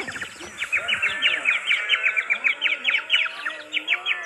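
Bird chirping: a fast run of short high chirps, several a second, starting about half a second in.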